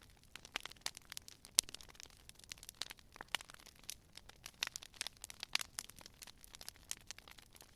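Wood fire crackling: many small irregular pops and snaps, with a few louder cracks scattered through.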